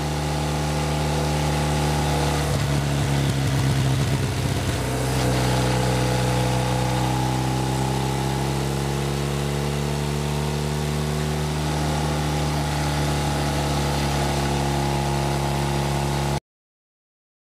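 BMW Rockster motorcycle's boxer-twin engine running steadily, with a brief unsettled patch about three to five seconds in. The sound cuts off suddenly near the end.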